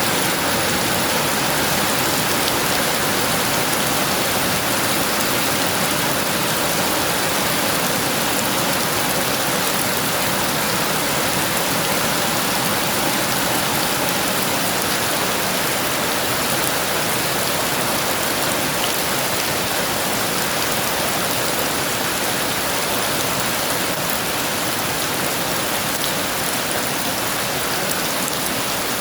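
Heavy rain falling steadily: a dense, even hiss without breaks.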